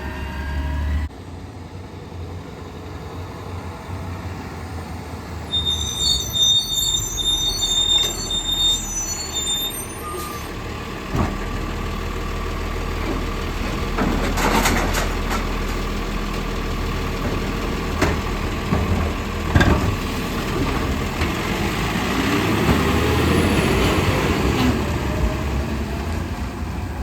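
Garbage truck at work: a diesel engine runs under a steady whine, with several sharp metallic clanks in the middle and rising revs near the end.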